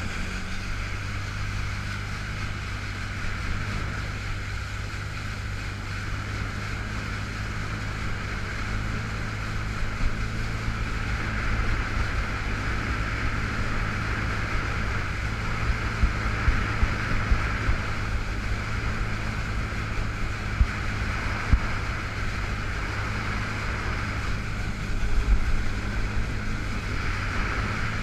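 2005 Yamaha FX Cruiser H.O. jet ski's four-stroke engine running steadily under way, with rushing wind and water over it. It runs in its limited low-power mode. A handful of short thumps come in the second half, several close together about midway and two more later.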